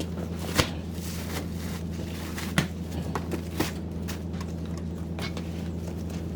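A steady low hum with scattered sharp knocks and clicks, the loudest about half a second in and again about two and a half seconds in.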